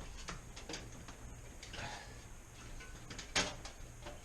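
Light clicks and knocks of plastic refrigerator parts being handled while the drain pan's retaining tabs are worked, with one sharper click about three and a half seconds in, over a faint low hum.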